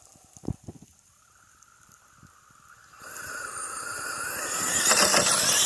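Traxxas Sledge VXL RC truck's brushless motor and drivetrain whining, rising in pitch as the truck accelerates, with tyre noise swelling over the last couple of seconds; a few light clicks come before the whine picks up.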